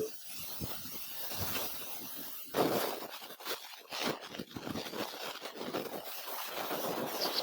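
Irregular scraping and knocking from hand work on metal parts, loudest about two and a half seconds in.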